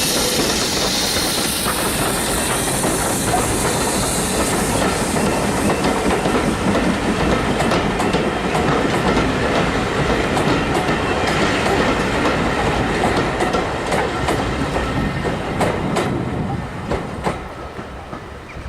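Steam-hauled train rolling past at close range, its wheels clattering over the rail joints and crossing with a run of sharp clicks through the middle. The noise falls away near the end as the train goes by.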